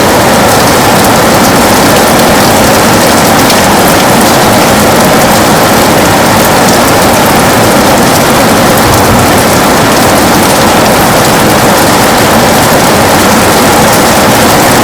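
Heavy rain falling steadily on a window, a loud, even hiss with no breaks.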